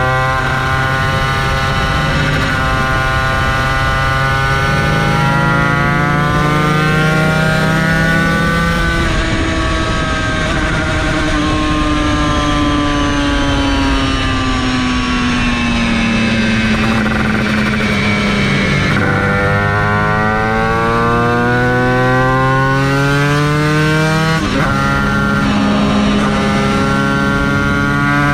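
Yamaha TZ250 two-stroke V-twin race engine under load, its pitch climbing as it accelerates, falling in one long drop in the middle as the bike slows, then climbing again with a short break near the end, as at a gear change.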